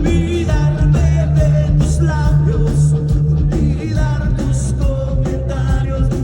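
Live rock band playing loudly: drums keeping a regular beat under a heavy bass, with a sung or played melody wavering above.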